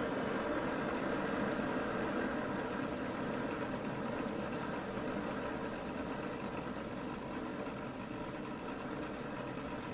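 Modified Warp 5 Stirling engine running steadily on its propane burner, with its water-cooling system and fans, driving a DC generator that is charging a phone. An even, very quiet hum with a few faint light ticks.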